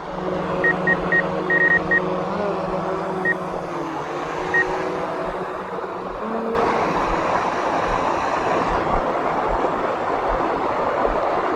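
DJI Mavic 2 Pro quadcopter's motors and propellers humming steadily, with a few short high beeps in the first few seconds. About six and a half seconds in, a louder, even rushing noise takes over.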